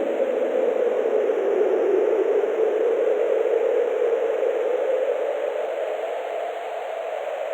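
Steady rushing wind, a continuous noise centred low whose pitch slowly rises across the few seconds and dips slightly in loudness near the end.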